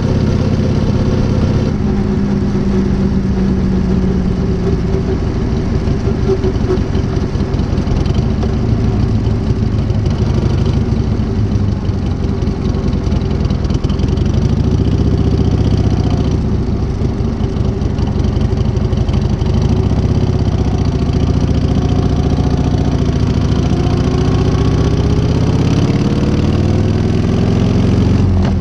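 1978 Harley-Davidson Shovelhead V-twin engine with a new S&S carburettor, running steadily, its pitch climbing slowly over the last few seconds.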